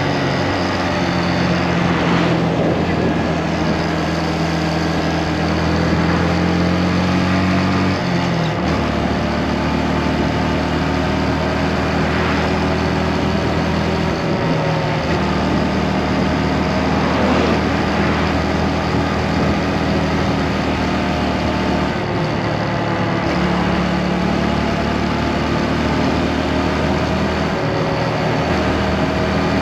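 Motorcycle engine running steadily under way, over a constant rush of wind and road noise; its pitch steps to a new level a few times.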